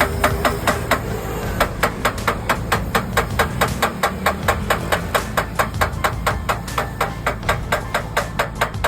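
Rapid, even hammer taps, about four to five a second, over a steady low rumble.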